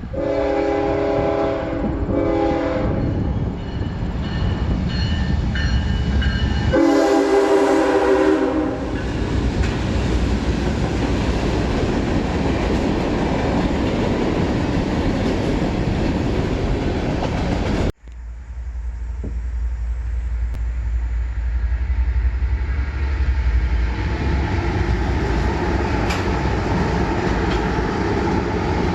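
Train horn blowing, a long blast and a shorter one, then another long blast a few seconds later, as the train passes with a steady rumble of wheels on rail. The sound breaks off abruptly about two-thirds of the way through, then the train's rumble goes on.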